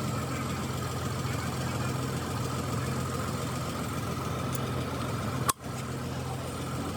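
An engine idling steadily with an even hum. About five and a half seconds in there is a sharp click and a momentary dip before the same idle carries on.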